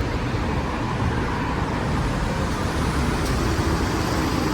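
Steady road-traffic rumble of motor vehicles, heaviest in the low end and without distinct events.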